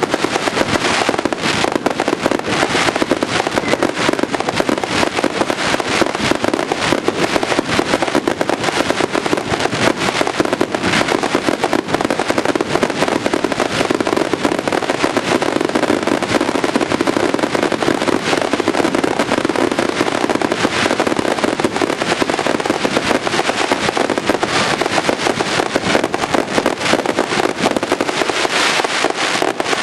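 Fireworks at close range: a dense, unbroken barrage of bursting shells and crackle.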